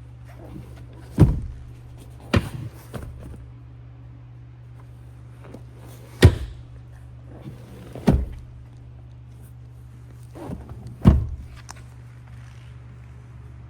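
Five sharp thunks a few seconds apart, typical of the F-150's doors or other panels being shut, with a few lighter knocks between them, over a steady low hum.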